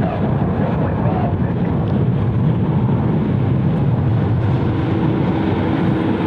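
Steady jet-engine rumble of an airliner departing. A faint steady hum joins it about two-thirds of the way through.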